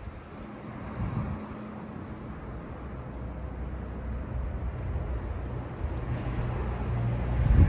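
A low, steady mechanical rumble with a faint hum, growing louder toward the end.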